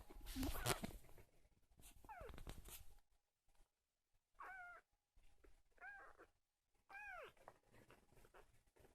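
Three-week-old kitten mewing: about four short calls, each rising then falling in pitch. There is a brief rustle or bump near the start.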